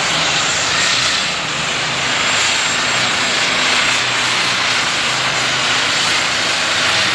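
A turbocharged diesel super stock pulling tractor, a John Deere, running flat out under load down the track, a loud, steady engine and turbo scream.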